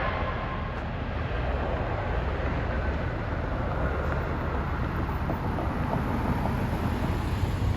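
Jet airliner engine noise at an airport: a steady rumble, with a high engine whine that fades out in the first second.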